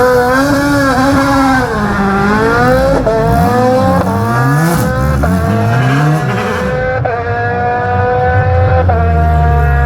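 Race car engine accelerating hard at high revs. The revs dip about two seconds in, then the car climbs through several quick upshifts, each one a sudden small drop in pitch before the engine pulls up again.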